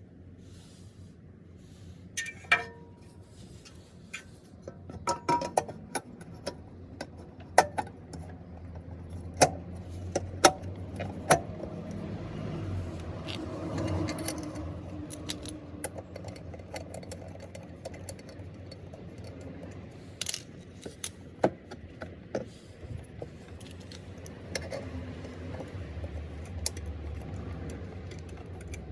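Metal hand tools and scooter parts clinking and knocking, a dozen or so sharp separate clicks, one ringing briefly about two and a half seconds in, over a steady low hum.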